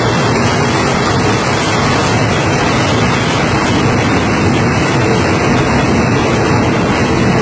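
Passenger train coaches rolling past close by at a station platform: a loud, steady rushing rumble of the wheels on the rails.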